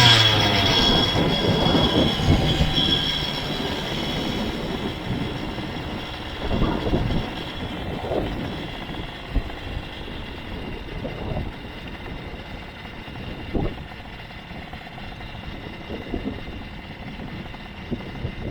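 Motorized bicycle engine winding down in pitch at the start. Then a rattling rumble with scattered knocks that slowly fades.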